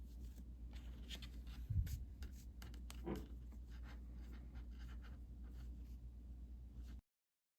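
Faint scratchy rustling and light clicks of hands working yarn through a plastic mesh canvas, with one low thump about two seconds in, over a steady low hum.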